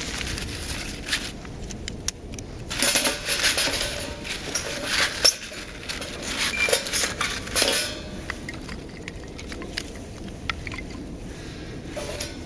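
Metal clinking and clattering, a run of sharp knocks from about three to eight seconds in, as parts of a sheet-metal camp wood stove are handled.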